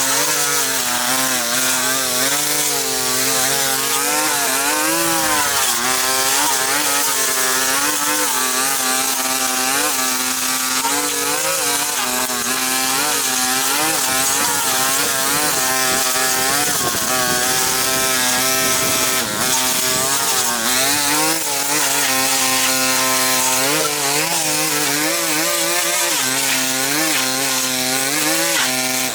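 Small engine-powered cutting tool running continuously, its pitch wavering up and down as the load changes.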